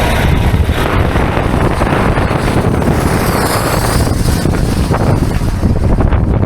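Heavy wind buffeting the microphone: a loud, steady rumbling rush.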